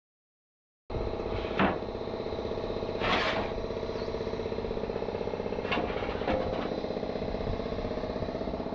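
Silence, then about a second in a machine starts up and runs steadily with a fast, even beat, punctuated by a few short knocks.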